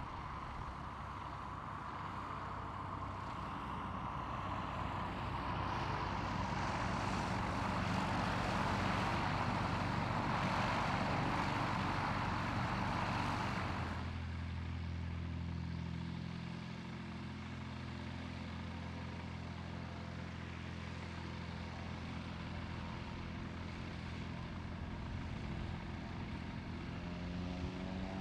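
Light propeller aircraft's piston engine running at low power, a steady low hum. A rushing noise swells over it for the first half and then stops abruptly. Near the end the engine note starts to rise.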